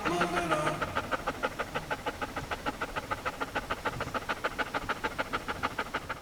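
Dog panting fast and evenly, about five or six breaths a second.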